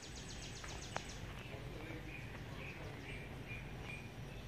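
A bird chirping over and over, short high chirps about two to three a second, over a steady low rumble. A fast, high ticking trill runs through the first second or so.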